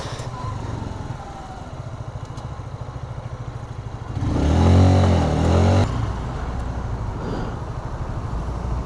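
Honda CBR125R's small single-cylinder engine running under way, with a rise and fall in revs about four seconds in that is the loudest part.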